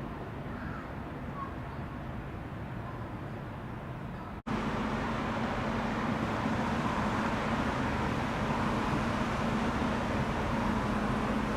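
City street ambience with steady traffic noise. About four seconds in it drops out for an instant and comes back louder, now with a steady low hum.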